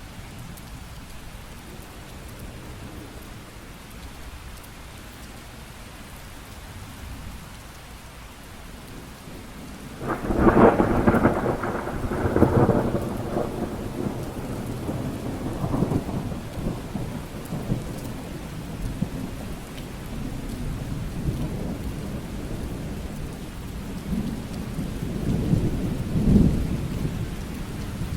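Steady rain, then about ten seconds in a sudden crack of thunder that rolls on in several peals for about six seconds; a second, lower rumble of thunder swells near the end over the rain.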